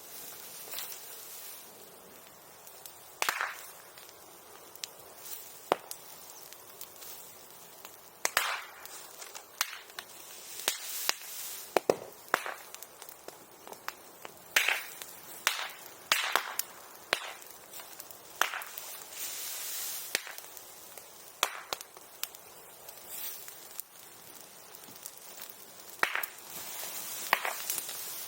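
Bonfire of bamboo and bamboo grass crackling, with sharp cracks and pops at irregular intervals as the burning stems snap and burst.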